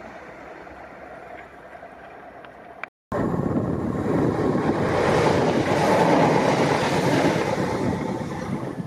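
A train passing on the line: a moderate rumble, then after an abrupt cut a much louder rushing rumble of a locomotive-hauled train going by close, swelling to a peak and easing off toward the end.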